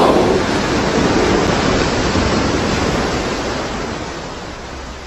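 Rushing roar of an avalanche of snow and ice, with wind buffeting the microphone, loudest at the start and slowly fading.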